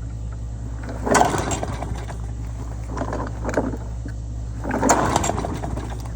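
Small push-lawnmower engine running steadily, with three short louder surges about one, three and five seconds in.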